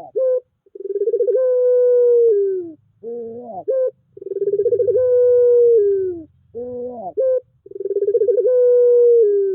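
Puter pelung dove, a domesticated ringneck dove bred for its long coo, cooing repeatedly. Each phrase is a few short rising notes followed by one long drawn-out coo that sinks at the end, about three phrases roughly three and a half seconds apart.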